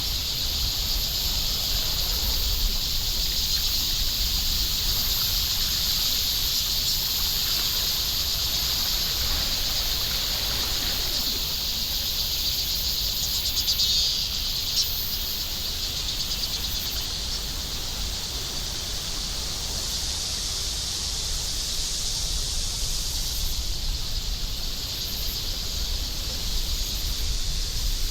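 A chorus of insects buzzing steadily and high-pitched in the trees, with a low rumble of handling or wind on the microphone underneath.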